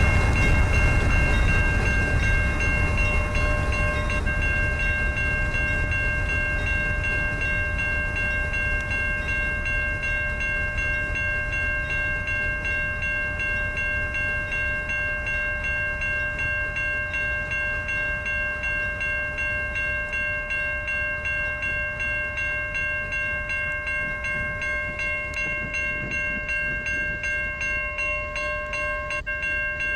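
Railroad crossing bell ringing with even, repeated strikes while a Norfolk Southern freight train rumbles past, the rumble slowly fading.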